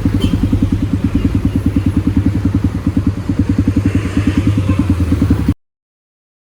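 Kawasaki D-Tracker 250's single-cylinder four-stroke engine, through an aftermarket White Brothers exhaust, running at a steady idle with an even thudding beat. The sound cuts off abruptly to silence about five and a half seconds in.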